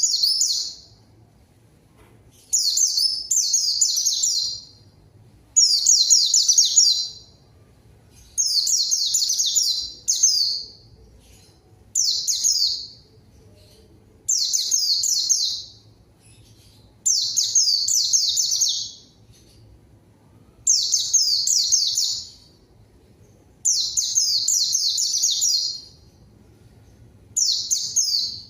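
A white-eye (pleci) in full song: high, rapid twittering phrases of about two seconds each, repeated roughly every three seconds with short pauses between. It is the lively song keepers play to provoke other white-eyes to answer.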